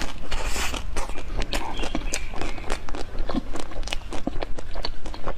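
Close-miked crunching and chewing of a frozen dessert with a brittle green shell, the shell cracking between the teeth. It comes as a dense run of sharp, irregular crackles and clicks.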